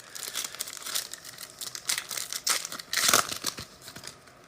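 Crinkling and rustling of plastic card-pack wrapping as football trading cards are handled, in irregular bursts that are busiest a little past halfway.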